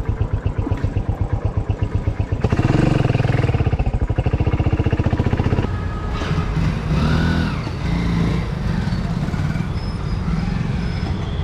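Motorcycle engine running with an even, rapid pulse. It gets louder about two and a half seconds in and eases back down about three seconds later. Brief rising-and-falling tones sound over it in the middle.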